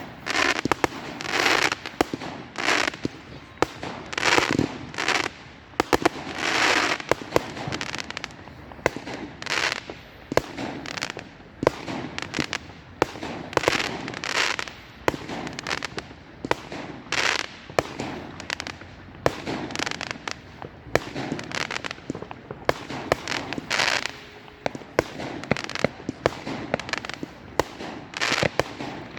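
A fireworks display going off in quick succession: many sharp bangs and short hissing, crackling bursts, overlapping, one or more every second.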